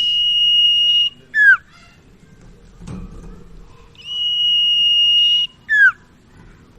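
Common iora (sirtu/cipau) singing two phrases. Each is a long, steady, high whistle held for about a second and a half, then a short note that slides downward.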